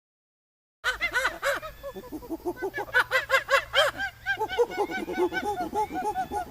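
Monkey chattering: a rapid run of short, arched, squeaky calls, several a second, starting about a second in.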